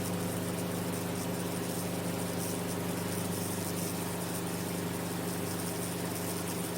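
Enstrom F28F piston helicopter's engine and rotor droning steadily in flight.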